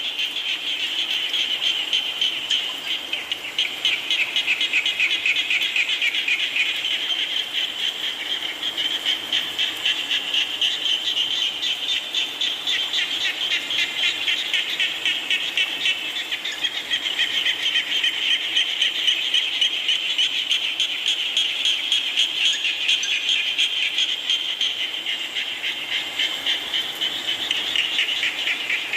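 A dense chorus of frogs calling, many overlapping fast-pulsed trills that run on without a break, with fainter lower croaks beneath.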